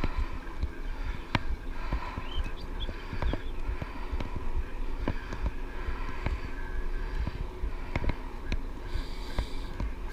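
Electric bike riding over a rough track: a steady low rumble from the tyres and ride, broken by frequent sharp knocks and rattles as it goes over bumps.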